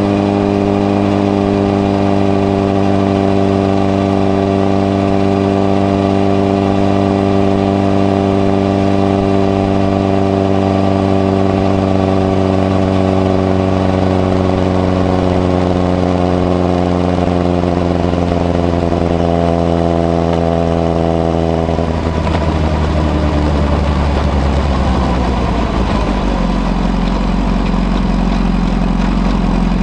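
Honda CBR1000RR (SC57) inline-four running through a modified Moriwaki exhaust with its baffle fitted, holding steady revs while riding. About two-thirds of the way through the revs drop off, and the engine settles to a low, steady note near the end.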